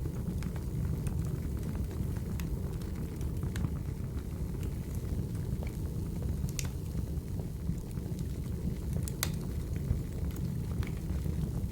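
Wood fire burning: a steady low rumble of flames with sharp, separate crackles and pops from the burning logs every second or two.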